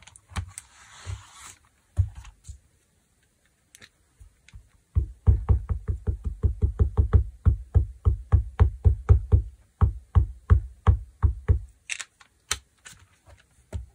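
Rubber stamp being tapped rapidly and repeatedly against an ink pad and fabric on a tabletop, dull knocks about four or five a second for some seven seconds with a short break partway. A rustle and a few single knocks come before the run.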